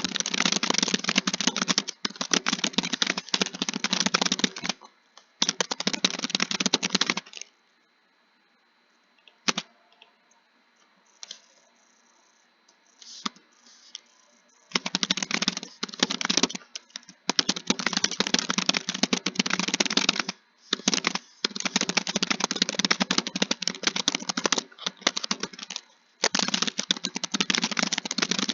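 Rapid typing on a keyboard, dense runs of key clicks. The typing stops for about seven seconds a third of the way in, with only a few single key presses, then resumes in long bursts to the end.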